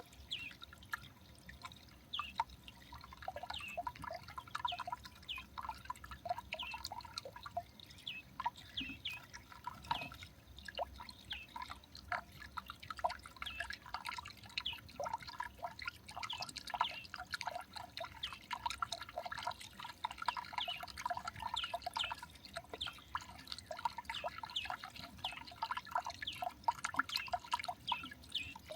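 Small garden birds at a feeder giving many short chirping calls, several a second without a break, a busy overlapping chatter.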